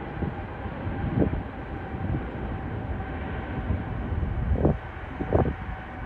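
Jet airliner engines rumbling steadily with a faint steady whine, broken by a few short gusts of wind on the microphone.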